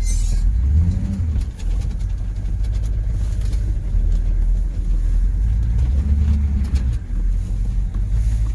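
M1028 CUCV pickup's 6.2-litre V8 diesel engine running hard under load as the truck tries to climb a steep snowy grade. The engine swells louder about a second in and again around six seconds.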